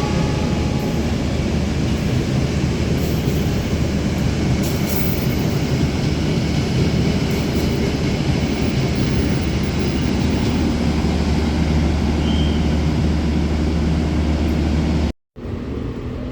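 A train running past on the rails, a steady heavy rumble of wheels and cars, with the tail of a horn blast fading out in the first second. The sound breaks off abruptly near the end and resumes quieter.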